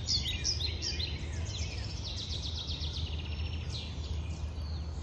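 Several songbirds chirping and trilling in quick, short, falling phrases, over a steady low rumble.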